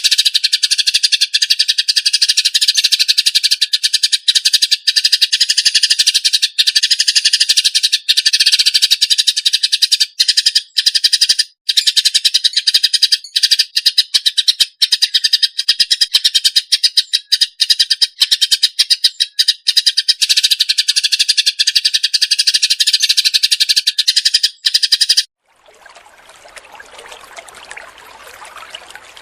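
A songbird masteran recording: a dense, high-pitched, rapid trilling chatter that runs on without pause and cuts off suddenly about 25 seconds in. A quieter, even trickle of water follows.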